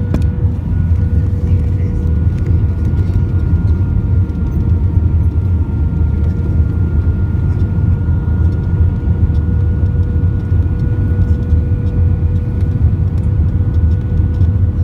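Steady low rumble of a vehicle in motion, recorded from on board, with a constant whine that holds one pitch.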